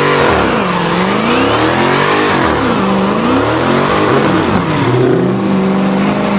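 A car engine revved hard several times, the pitch climbing and falling in swells, then holding at a steady higher speed near the end.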